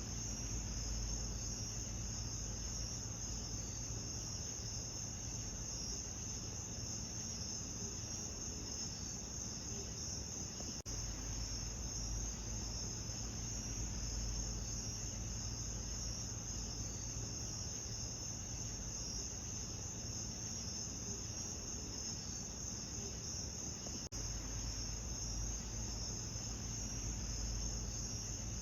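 A steady chorus of crickets chirping over a low, even rumble, broken by two very brief dips in the sound.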